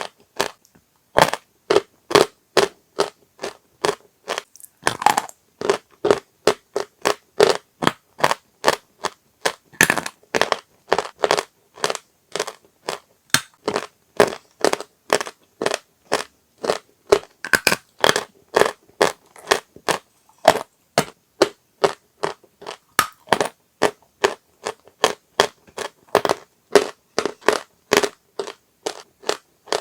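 Dry chalk being crunched, a steady run of short crisp crunches, about three a second.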